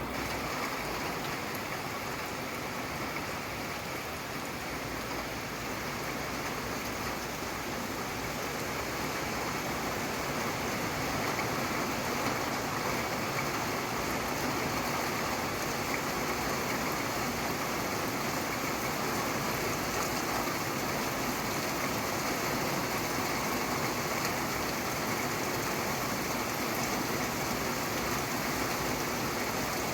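Steady rain falling, an even continuous hiss with no distinct drops or thunder, growing slightly louder about ten seconds in.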